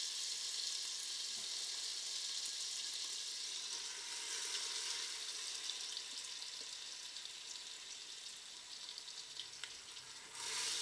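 Floured chicken pieces frying skin side down in hot olive oil and butter: a steady sizzle that slowly dies down, with a few pops near the end and a brief louder surge of sizzling just before the end.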